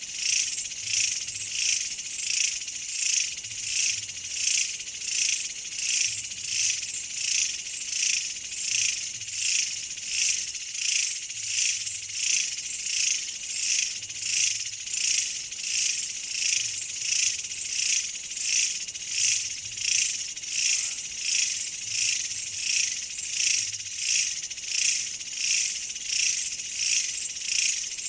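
A chorus of insects giving a high, shrill rasp that swells and fades in an even rhythm of about one and a half pulses a second.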